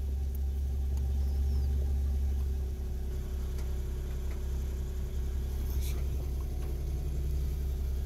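A car engine idling, heard from inside the cabin as a steady low drone with a faint hum above it.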